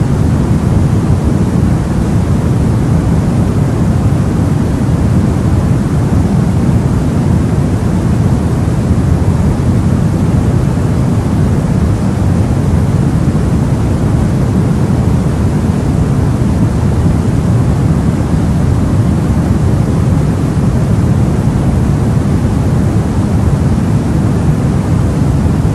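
Steady white noise for baby sleep, weighted toward the low end, so it sounds deep rather than hissy. It stays even and unchanging throughout.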